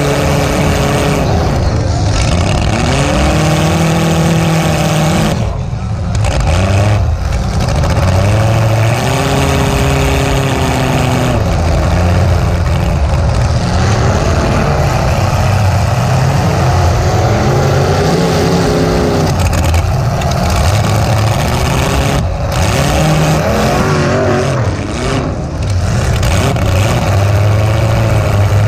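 Demolition derby car's engine running loud through short open exhaust stacks that rise straight up through the hood, revving up and falling back again and again as the driver works the throttle, with a few brief throttle lifts.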